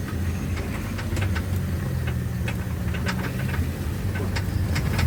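Ambulance engine running steadily at low speed, with many scattered sharp clicks and knocks over it.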